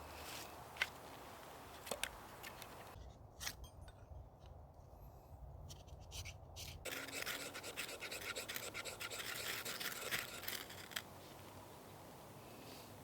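Scraping and rubbing handling sounds, with a few sharp clicks early and a dense stretch of scratchy rustling about seven to eleven seconds in.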